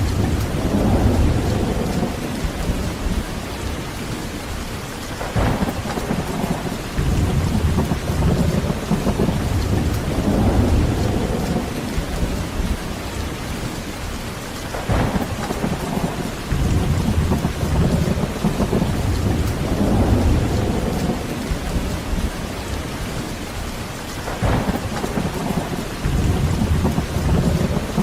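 Heavy rain falling steadily, with low rolling thunder that swells and fades about three times, roughly every ten seconds.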